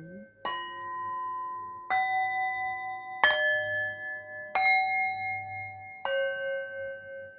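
Meditation background music of struck, ringing bell-like tones: five strikes about a second and a half apart, each note different and ringing on until the next.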